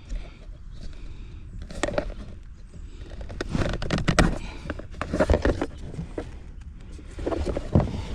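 Scattered clicks and handling noise of a plastic wiring connector being worked loose and unplugged from a vehicle module, with a cluster of clicks around the middle.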